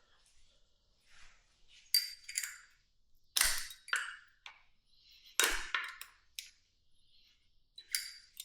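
Metal tools and small carburetor parts clinking and knocking on a hard surface: a series of sharp, briefly ringing clinks, the two loudest, with a dull knock under them, about two seconds apart in the middle.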